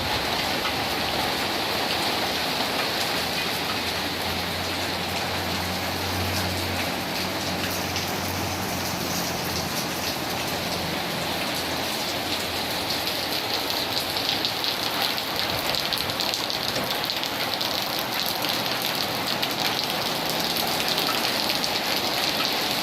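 Steady rain falling and spattering on surfaces. A low steady hum runs underneath from about two seconds in until about halfway, then fades.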